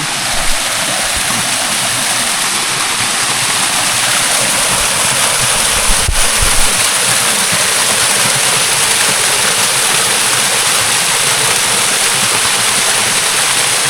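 Small waterfall: water pouring and splashing close by in a steady, loud rush.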